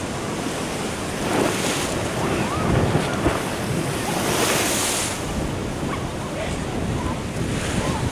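Ocean waves breaking and washing in, with surges of hissing surf about one and a half and four and a half seconds in. Wind rumbles on the microphone.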